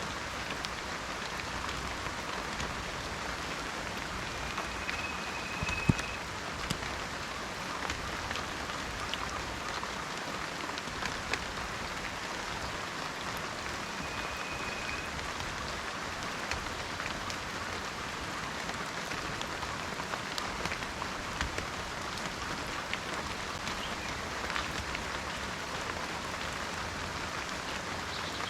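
Steady rain falling, a constant hiss with scattered individual drops ticking and one sharper drop about six seconds in. A faint short high whistle sounds twice in the background.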